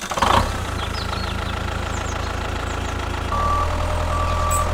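Small vehicle engine, likely a mini tractor, starting up and then idling with a steady low hum. Two short high beeps sound in the second half.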